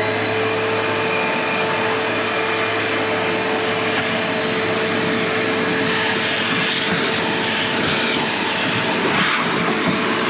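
Vacuum cleaner running steadily with a high motor whine and a rush of air, sucking built-up dust and debris out of an old table saw, with rougher rattly stretches about six and nine seconds in.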